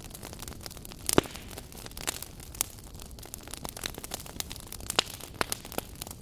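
Wood fire burning in a fireplace, crackling with irregular pops over a soft steady hiss; the sharpest pop comes about a second in and another near the five-second mark.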